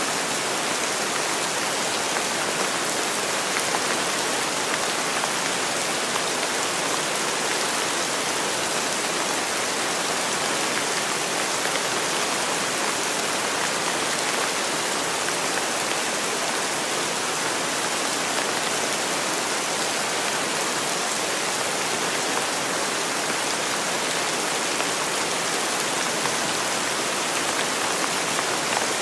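Steady rainfall: an even, unbroken hiss of rain, with no thunder or separate loud drops standing out.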